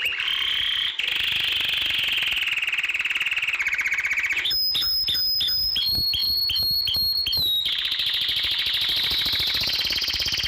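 Domestic canary singing a continuous song of rapid trills and rolls, switching to a new trill every second or two, with stretches of high, piercing whistled notes in the middle.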